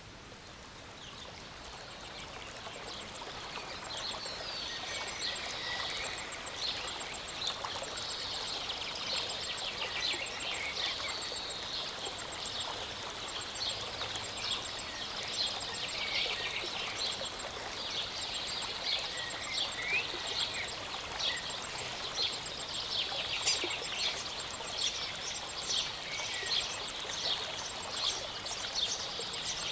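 Small mountain stream running steadily, with many songbirds chirping and trilling over it in quick bursts. The sound swells up over the first few seconds and then holds steady.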